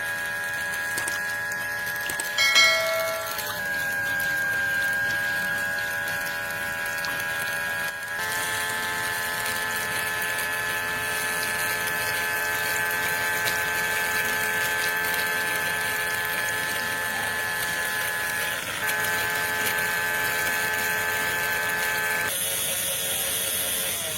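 A small electric motor running with a steady high whine. Its pitch and load shift briefly a few times.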